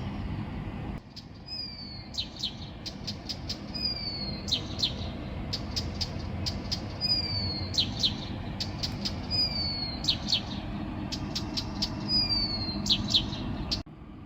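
A songbird singing at night, repeating the same short phrase about once a second: a high whistle sliding slightly down, followed by a few sharp, quick high notes. A steady low rumble sits underneath.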